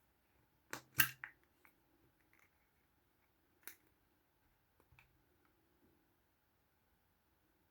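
Small plastic toys or parts being handled, giving a few sharp clicks and taps: a quick cluster of three about a second in, then single clicks about three and four seconds later.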